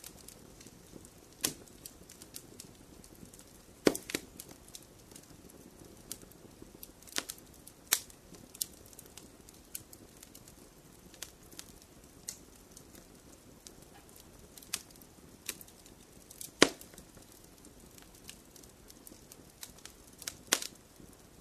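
Wood fire in a fireplace burning with a soft steady hiss and irregular sharp crackles and pops from the logs, a few of them much louder than the rest.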